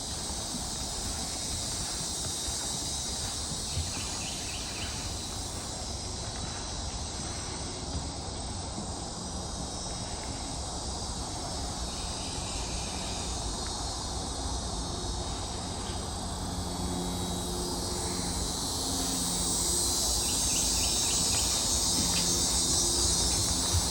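Steady high-pitched chorus of swamp insects, growing louder over the last few seconds. A short rapid trill sounds three times over it.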